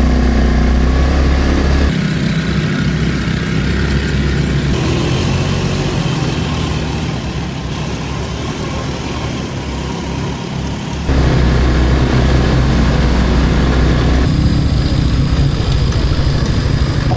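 ATV engines running and revving. The sound changes abruptly a few times, at about 2, 5, 11 and 14 seconds in.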